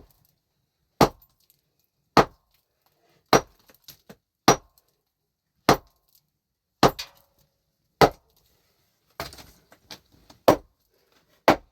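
A heavy hand tool striking hard about once a second, around ten sharp blows in a steady working rhythm.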